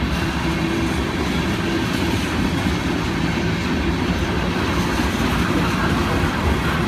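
Covered hopper cars of a freight train rolling past, a steady loud rumble of steel wheels on the rails.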